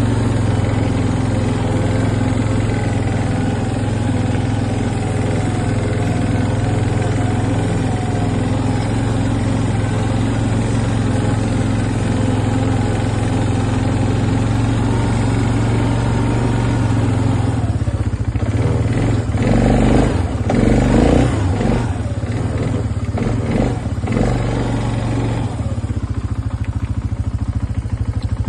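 An engine running steadily at an even idle. About two-thirds of the way through, the steady drone breaks up for several seconds into uneven, louder noise, then settles back to a steady run.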